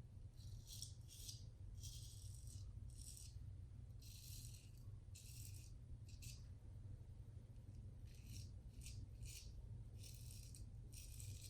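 Max Sprecher custom 8/8 straight razor scraping lathered stubble in about a dozen short, irregular strokes during the first shaving pass.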